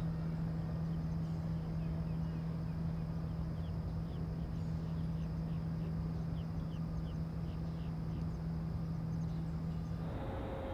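A bird calling in a string of short, high, falling chirps, roughly two a second, over a steady low hum from an unseen machine; the hum cuts off near the end.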